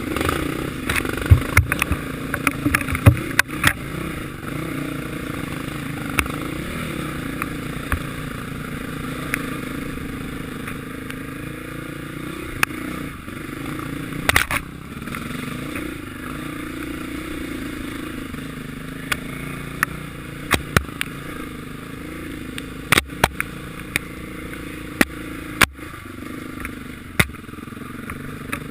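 Motocross bike engines running, their pitch rising and falling, with a scatter of sharp clicks and knocks that come thickest in the first few seconds.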